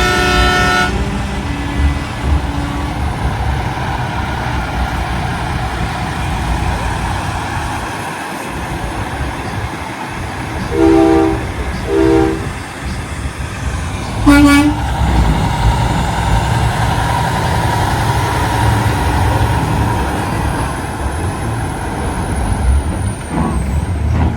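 Big-rig trucks rolling by with their diesel engines running and horns sounding: a chord-like blast at the start, two short toots a little before halfway, and another short blast a little after halfway.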